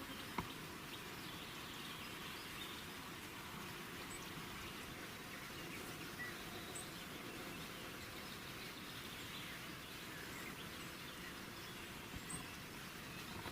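Faint outdoor ambience: a steady hiss with a few brief high chirps, like distant birds, and one sharp click about half a second in.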